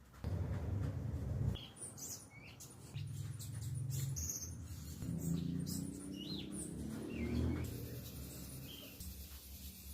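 Birds chirping in short, scattered calls, some with quick gliding notes, over a low uneven rumble.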